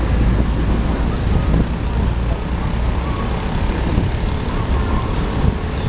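Steady low rumble of wind buffeting the microphone outdoors, with an even hiss above it.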